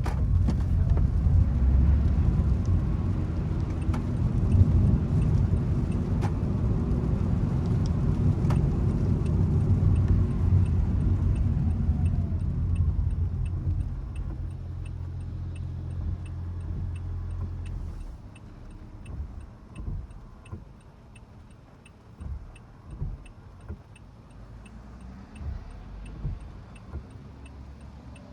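Car driving: a low road and engine rumble that eases off and then stops abruptly about two-thirds of the way through, leaving a quieter background with a faint, regular ticking.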